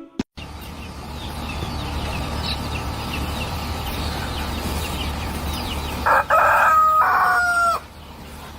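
A rooster crowing once, loud and drawn out, about six seconds in, over a steady outdoor background with faint bird chirps.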